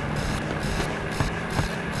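John Deere tractor's diesel engine running steadily, with music playing along with it.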